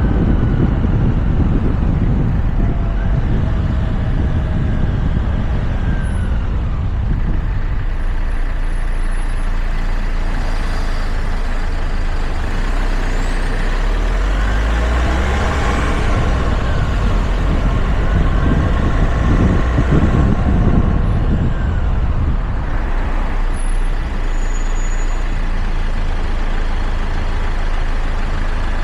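Road and wind noise from a car on the move, picked up by a camera mounted on its roof: a steady, loud low rumble with hiss above it.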